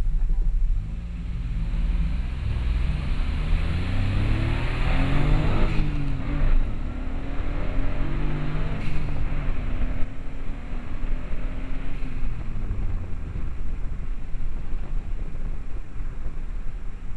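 Turbocharged Turbo Sprint hatchback's engine accelerating hard from a standstill, heard inside the cabin. Revs climb, fall back at a gear change about six seconds in, climb again through further shifts, then settle into steadier running.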